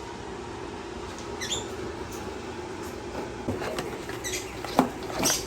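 Caged birds giving short, sharp chirps and squeaks, one early and then several more in quick succession toward the end, over a steady background hum.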